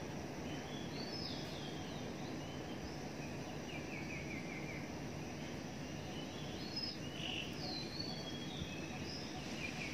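Songbirds in the trees chirping and calling in short high phrases, including a quick run of falling notes twice, over a steady low background rumble.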